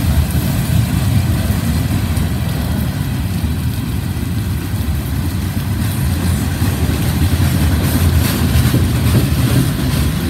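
Freight train passing close by: a steady low rumble of diesel locomotive and heavy railcars rolling on the track, with a few faint clicks from the wheels.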